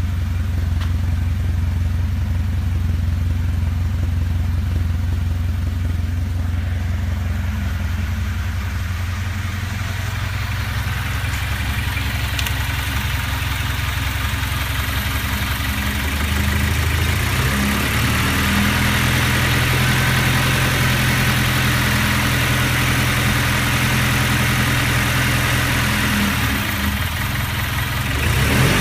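1974 Alfa Romeo Spider's twin-cam four-cylinder engine idling on a cold start, running smoothly after its fuel injection and ignition timing were serviced. The idle note steps up a little about two-thirds of the way through.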